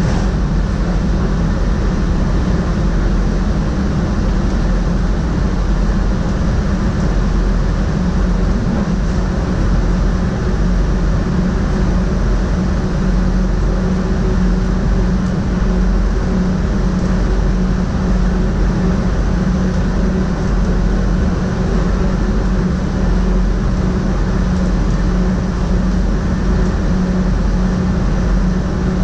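SGMm Sprinter electric multiple unit running steadily at speed, heard from the driver's cab: an even rolling rumble with a steady low hum.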